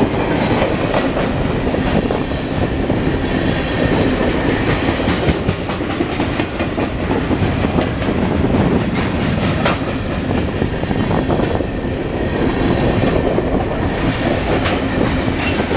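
Norfolk Southern mixed freight train rolling past, its freight cars rumbling steadily with wheels clacking over rail joints.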